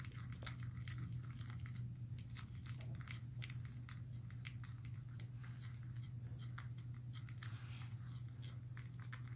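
A sticky slime mixture being stirred and worked in a bowl, giving many small irregular clicks and crackles, over a steady low hum.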